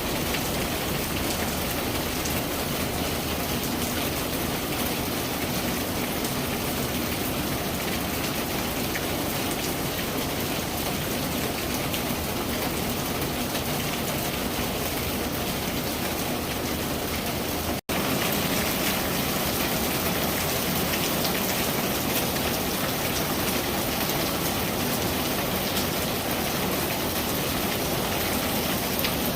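Steady rain falling, an even hiss of many drops pattering on a surface. The sound cuts out for an instant about two-thirds of the way through, then resumes unchanged.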